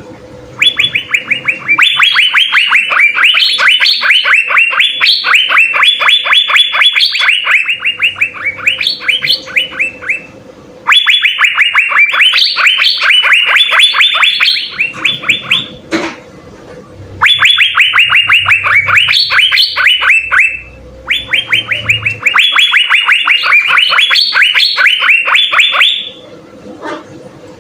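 Asian fairy-bluebird (cucak biru) singing in long, rapid runs of sharp repeated notes, about ten a second. The song comes in four bursts of several seconds each, with short pauses between them. There is a single click about two-thirds of the way through.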